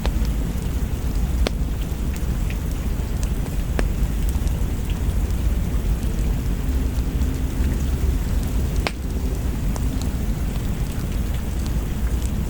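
Steady heavy rain with a deep, continuous thunder rumble underneath, and a few sharp pops scattered through it.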